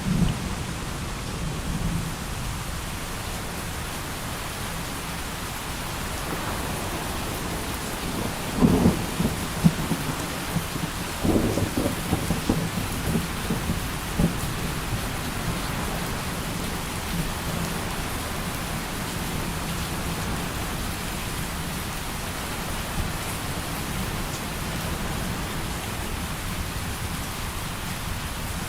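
Heavy rain falling steadily, with rolls of thunder: a rumble fading at the start and crackling thunder peals about a third of the way in before the rain carries on alone.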